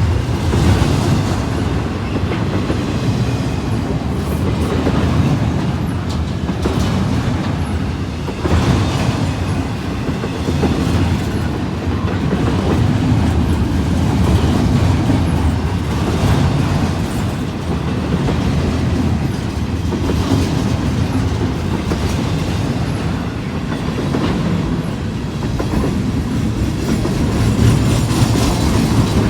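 Freight train rolling past close by, cars of an intermodal train clattering over the rail joints in a steady rumble.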